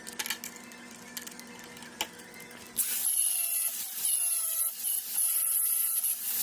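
Light clicks and taps, then about three seconds in a power tool starts and runs loudly with a high hiss and a wavering whine, like a tool working on material.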